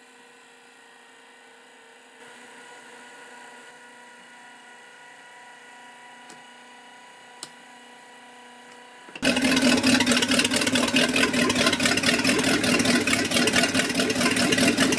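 A faint steady hum with a few held tones, then about nine seconds in an engine catches suddenly and runs loud with a fast, even throb, cut off abruptly at the end. The engine is plausibly the 1984 Liberator boat's.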